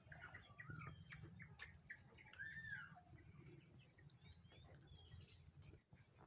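Faint scattered bird chirps and calls, busiest in the first three seconds with one arched call about halfway through, over a low steady rumble.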